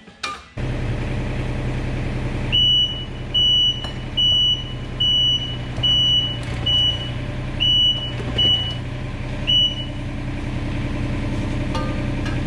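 A heavy-equipment diesel engine running steadily, with a backup alarm giving nine short high beeps, about one a second, through most of it before it stops near the end.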